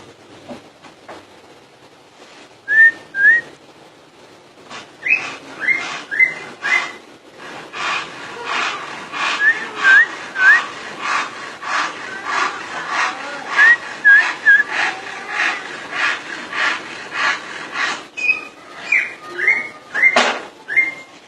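Cucak ijo (green leafbird) singing loudly: short rising whistled notes, and from about five seconds in a fast run of sharp repeated notes, about two a second, mixed with quick whistled phrases.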